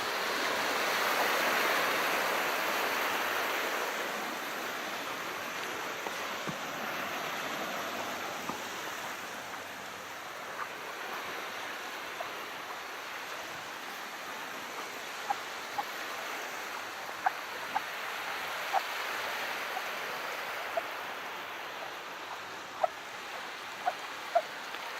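Calm sea water washing gently: a soft swell of wash in the first few seconds that slowly ebbs into a steady low hiss. Small sharp water plinks and ticks are scattered through the second half.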